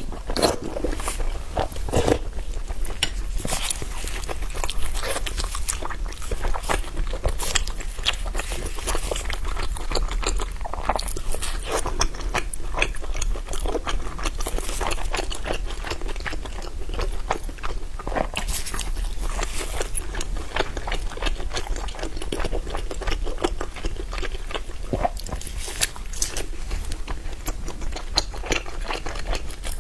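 Close-miked eating sounds: a person biting and chewing food, with dense, irregular crisp clicks and crunches throughout, over a faint steady low hum.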